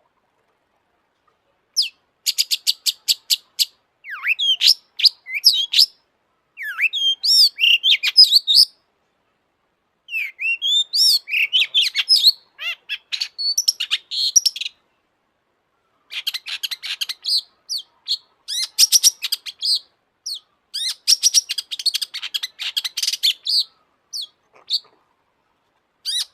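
Long-tailed shrike (cendet) singing in bursts of a few seconds with short silent gaps between them. The song alternates fast rattling strings of short notes with varied, swooping warbled phrases.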